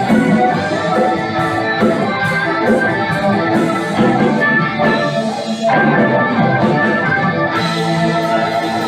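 Band music, an instrumental passage without singing, with sustained chords over a beat.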